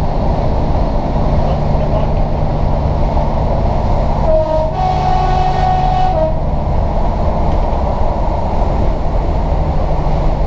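A diesel train runs with a steady rumble, heard from inside the carriage. About four seconds in, the train horn sounds for roughly two seconds, stepping from a brief low note to a held higher note and back to a brief low note.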